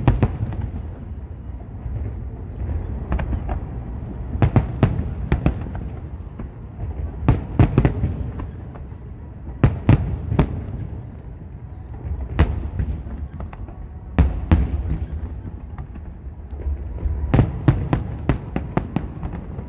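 Aerial firework shells bursting high overhead: sharp bangs in quick clusters every few seconds, over a steady low rumble.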